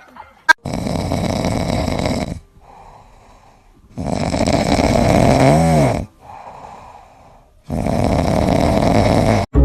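An animal snoring loudly: three long, rasping snores drawn in, each followed by a quieter breath out. A sharp click comes just before the first snore.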